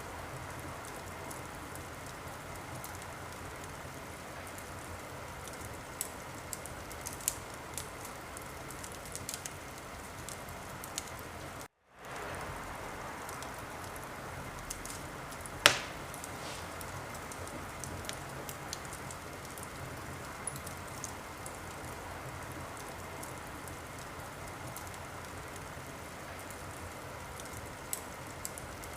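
Wood fire burning in a fireplace: a steady hiss with scattered small crackles and one loud sharp pop about halfway through. The sound cuts out for a moment a little before the pop.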